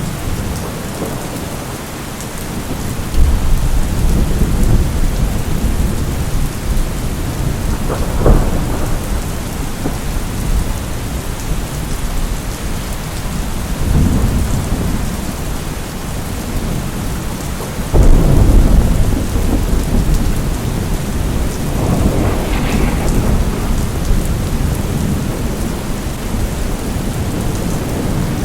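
Steady heavy rain with rolling thunder. Deep rumbles start suddenly about 3 seconds and 18 seconds in, with a sharper crack about 8 seconds in and further rolls near 14 and 22 seconds.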